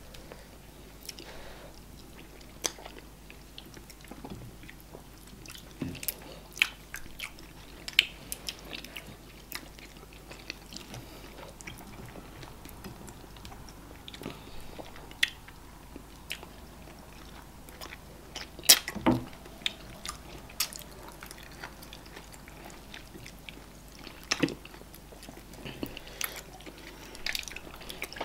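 Eating sounds of two people eating eba with okra soup and assorted meat by hand: chewing, lip smacks and fingers working the soft eba, heard as scattered sharp clicks, the loudest about two-thirds of the way in.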